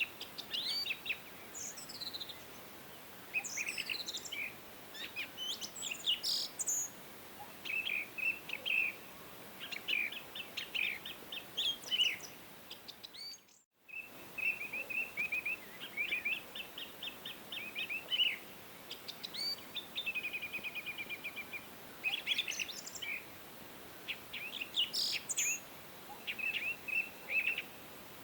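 Several songbirds chirping and singing, with short overlapping trills and whistled notes over a faint steady hiss of outdoor ambience. The sound briefly cuts out about halfway through, as at a splice between recordings.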